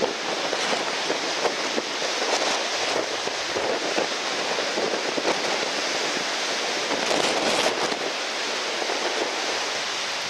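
Steady rushing noise of strong wind and surf, with crackling gusts buffeting the microphone; slightly louder about seven seconds in.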